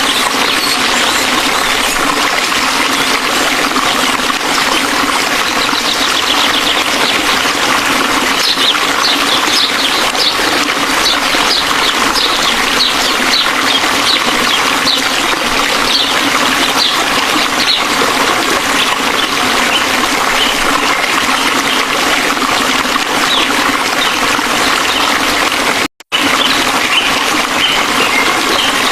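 Dhani Waterfall's water rushing in a loud, steady wash of falling water, cutting out for a moment a few seconds before the end.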